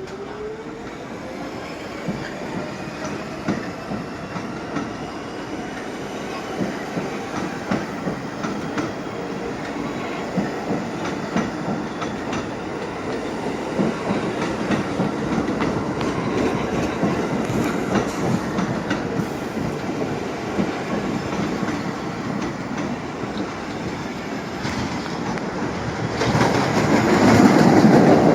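New York City subway train running on the Brighton Line, its motor whine rising in pitch over the first few seconds while the wheels click over rail joints. The train noise grows steadily louder, with a sharp jump near the end as it comes closest.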